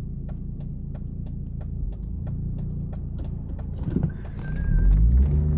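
Vehicle engine and road rumble heard from inside the cab while driving, with a steady light ticking about three times a second. Near the end the engine pitch rises as it accelerates.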